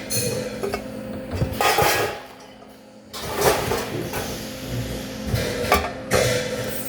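Metal parts clanking and knocking, several sharp strikes and clinks, over a steady machine hum; the sound quietens for a moment about two and a half seconds in.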